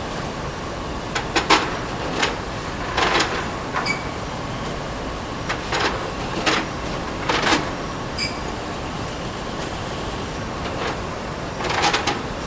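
Plate-production machinery running steadily, with irregular clattering knocks about once a second or two and a few short, high metallic pings.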